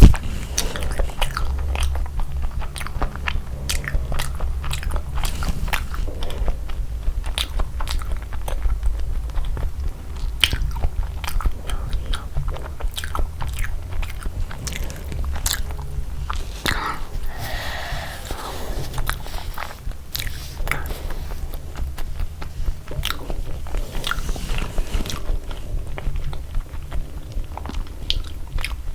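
Close-miked eating sounds of a person chewing and biting food, with many wet mouth clicks and occasional crunches, over a low steady hum.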